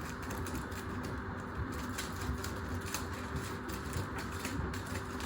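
Washing machine running with objects rattling loose in the drum: a steady motor hum under a stream of light, irregular clicks.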